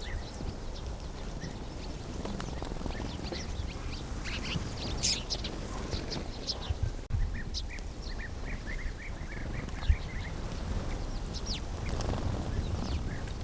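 Sparrows chirping: scattered short, high chirps, with a quick run of a dozen or so notes about two-thirds of the way through. A low steady rumble sits underneath.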